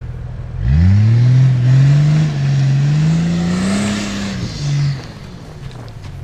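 Nissan Patrol's engine revving hard as the 4x4 strains up a steep, muddy hill. The revs jump about half a second in and are held high with the pitch wavering, then drop off, give one short last burst and settle to a low idle just after five seconds.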